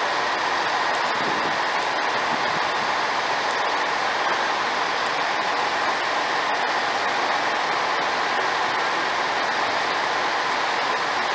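Passenger train approaching the platform slowly: a steady running noise with a faint, even whine that does not change in level.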